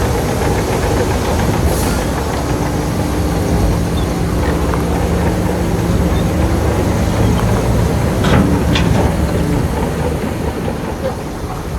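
Diesel engine of heavy earthmoving machinery running steadily under load, with two brief sharp sounds about eight seconds in.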